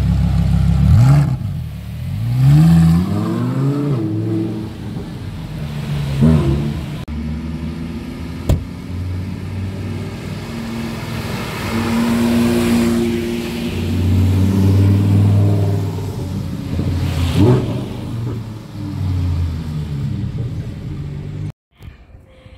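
Lamborghini Huracán Performante's naturally aspirated V10 running loudly at a standstill, then pulling away with the pitch rising through several revs. Further sports-car engines follow, passing and revving, before the sound cuts off suddenly near the end.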